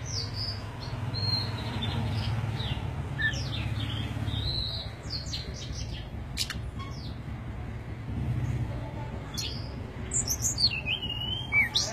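Small birds chirping: a string of short, high calls, with a quicker, louder run of calls near the end. A low steady hum runs underneath.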